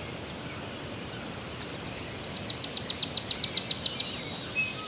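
A songbird singing a rapid trill of about a dozen repeated high notes, starting about two seconds in and stopping about two seconds later, over a steady faint high-pitched outdoor background.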